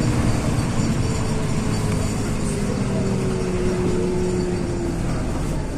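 Inside a moving LiAZ 6213 articulated city bus: the engine and drivetrain running steadily under road noise, with a whine whose pitch falls slowly.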